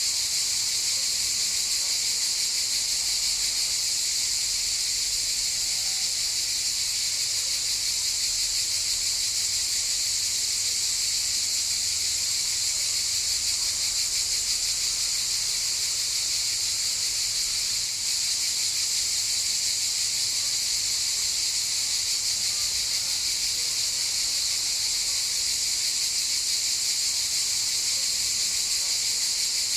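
A chorus of cicadas buzzing, a steady high-pitched drone that does not change.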